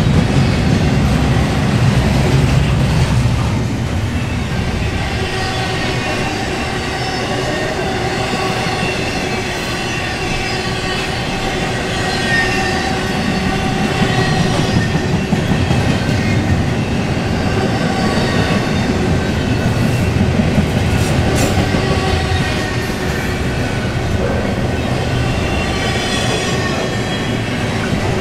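Double-stack intermodal container well cars rolling past: a steady rumble of steel wheels on rail, with thin high whining tones of the wheels mixed in.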